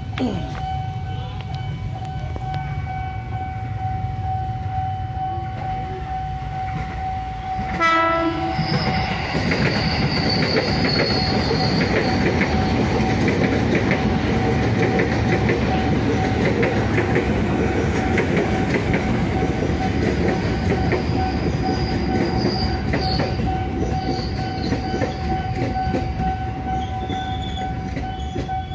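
A KRL Commuter Line electric train gives one short horn blast about eight seconds in, then runs past close by with a long, steady rumble of wheels on rails and a brief high whine. A steady level-crossing warning tone sounds throughout.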